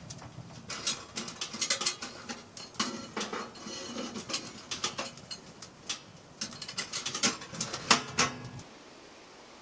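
Irregular clinks and knocks of camp cookware and utensils being handled, some ringing briefly, over a low steady rumble that stops near the end.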